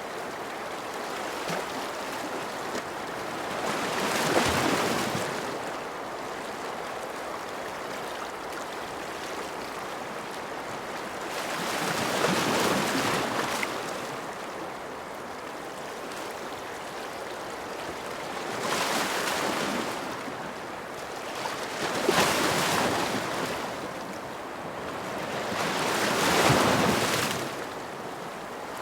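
Ocean surf: a steady wash of water with waves breaking in slow surges, about five times, each swelling and fading over a few seconds.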